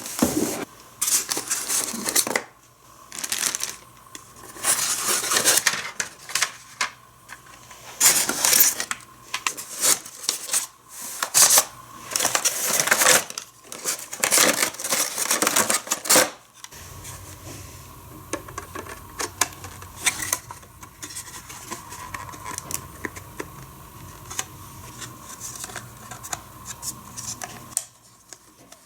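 Cardboard and plastic toy packaging being opened and handled: irregular rustles, crinkles, tearing and light plastic clatter. About two-thirds of the way through it gives way to a quieter steady low hum with only occasional light clicks.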